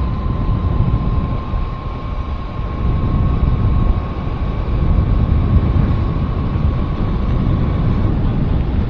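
Wind buffeting the microphone on a moving vehicle, a steady low rumble of wind and road noise with a faint steady whine above it.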